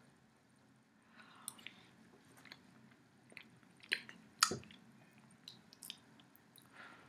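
Mouth sounds of a person eating a spoonful of chicken soup: chewing, with scattered short wet clicks and smacks, the loudest a pair about four seconds in.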